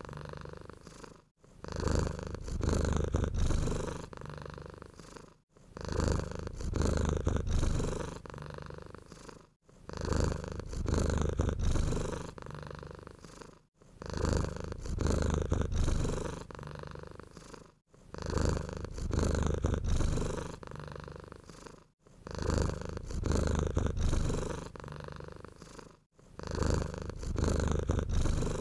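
Domestic cat purring close up, a low rumble that swells loud and then fades with each breath. The swells come in a steady cycle about every four seconds, with a short silent gap between them.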